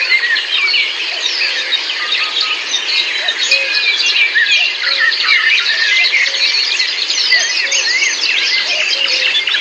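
Dense chorus of many songbirds singing at once, a tangle of overlapping short chirps and whistles, with a lower short note repeating about once or twice a second underneath.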